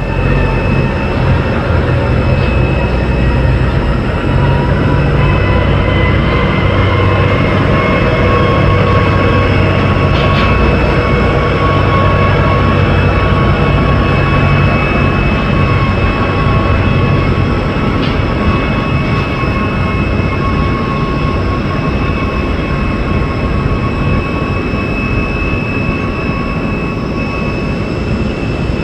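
Jet aircraft engines running: a steady loud rush of noise with high whining tones held over it, and a low hum that fades about two-thirds of the way through.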